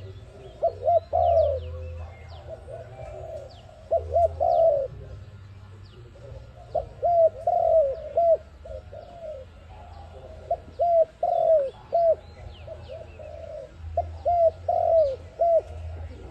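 Dove cooing in repeated phrases of several quick notes, five phrases about three seconds apart.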